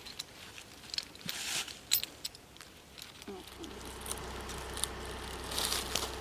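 Dry leaves and brush crackling and crunching underfoot in scattered clicks, then about halfway through a steady low hum comes in under the crackling.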